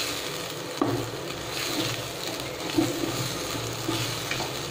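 Green pea paste sizzling steadily as it fries in ghee in a non-stick kadhai on a low flame, while a spatula stirs it, scraping and knocking against the pan; the sharpest knocks come about a second in and again near three seconds.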